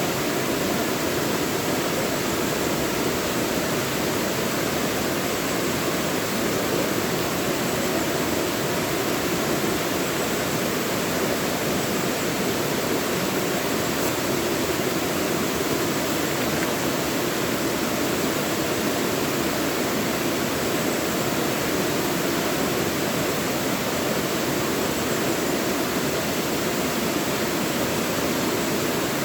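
Mountain stream rushing steadily over rocks in a deep valley, a constant even roar of water with no breaks.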